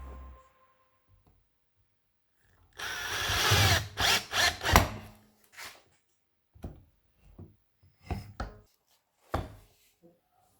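A power tool working wood in short bursts: one run of about a second, then several brief ones, spacing out towards the end.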